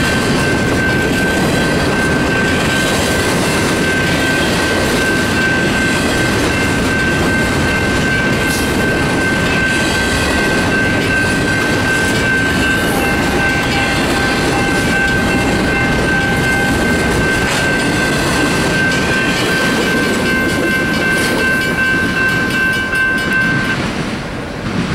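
Double-stack intermodal freight cars rolling past at speed, a steady rumble and clatter of steel wheels on the rails. A steady high ringing tone, typical of a grade-crossing bell, runs over it and stops shortly before the end, where the train noise drops and turns uneven.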